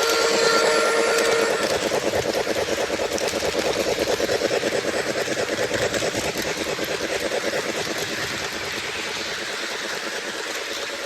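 Lionel LionChief Plus 4-6-4 Hudson O gauge model steam locomotive running. Its on-board sound system holds a steady whistle tone for the first second and a half, then gives rapid, even steam chuffing over the rumble of the wheels on the track. The chuffing grows fainter near the end.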